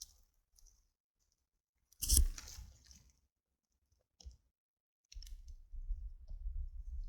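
Sticks and wood being handled: a few faint clicks, a loud crunching scrape about two seconds in, a single knock a couple of seconds later, then a steady low rumble begins.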